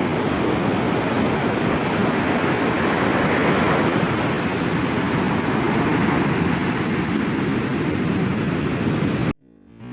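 Sea surf washing onto a beach in a steady rush, cut off abruptly just before the end.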